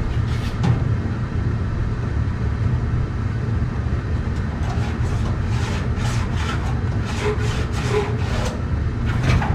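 Sheet-metal ductwork being worked by hand: a run of short scraping strokes, about two a second, through the second half, over a steady low hum.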